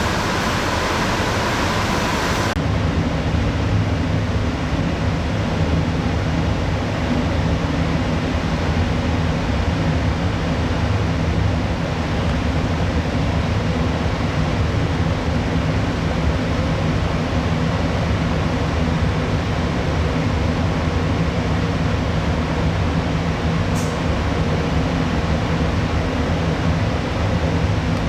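Steady low hum of a ship's onboard machinery and ventilation, with several low steady tones under a broad rushing noise. A brighter hiss drops out about two and a half seconds in, leaving the low hum.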